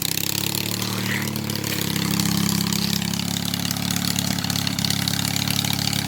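Honda engine of a small home-built pulling tractor running on throttle, its pitch climbing over the first couple of seconds and then holding steady.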